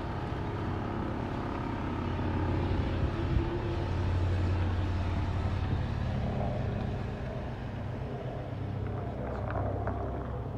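Nissan 300ZX (Z31) V6 engine idling steadily and smoothly, just revived after sitting for over twenty years; the car rolls slowly away in the second half.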